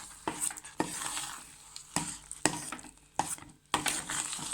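A utensil stirring and folding thick mashed potatoes in a pan, scraping and knocking against the pan in irregular strokes about every half second to a second.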